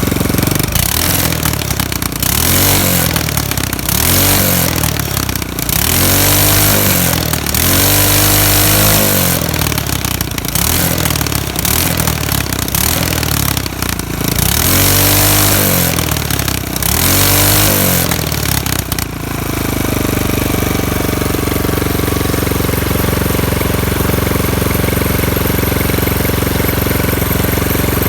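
6 hp small engine revved up and down again and again for the first two-thirds, each rev rising and falling in pitch, then settling into a steady idle for the rest.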